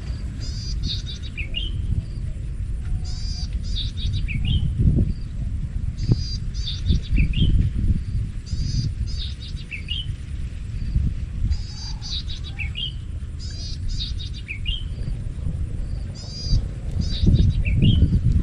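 A songbird repeating a short phrase every second or two: a quick high trill that ends in a lower dipping note. Under it, wind rumbles and gusts on the microphone, the loudest sound, swelling about five seconds in and again near the end.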